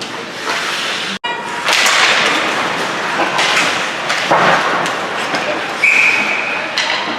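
Ice hockey game sounds in a rink: a noisy din with knocks and thuds from sticks, puck and boards, and a short steady high tone, like a whistle, near the end. The sound cuts out for an instant about a second in.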